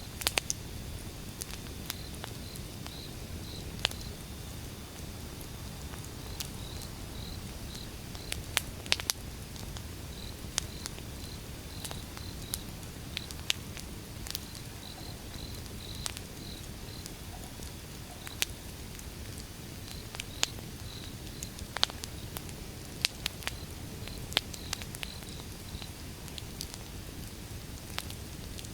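Outdoor wood fire burning: a steady low rush of flames with sharp crackles and pops from the firewood, irregular and several times a second at its busiest. A faint high chirping comes in short runs throughout.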